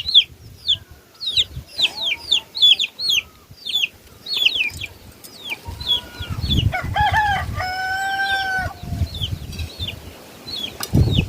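Chickens: chicks peeping over and over in short, high, falling chirps, and a rooster crowing once about halfway through, ending on a long held note.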